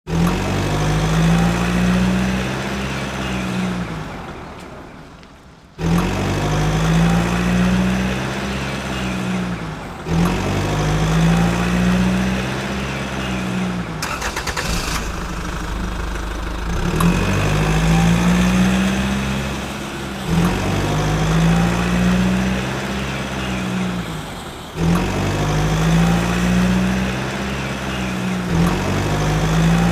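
Looped tractor engine sound, revving and settling in pitch over and over, each cycle starting abruptly every four to five seconds. It fades out once a few seconds in and then starts again.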